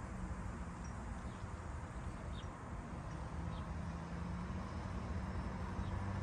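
A few faint, short, high bird chirps over a low, steady engine hum. The hum grows louder near the end as a vehicle comes closer.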